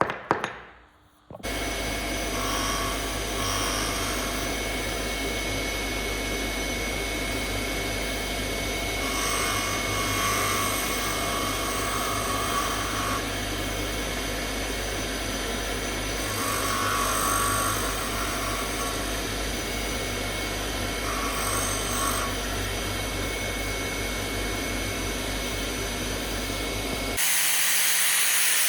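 An electric power tool motor starts after a couple of knocks and runs steadily, with a few louder stretches where it works against the piece. Near the end the sound changes to an even hiss.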